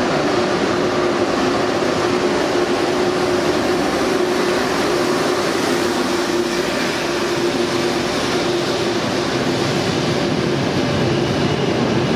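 Trenitalia high-speed electric train running past along a station platform: a steady rush of wheel and running noise with one steady hum held through it.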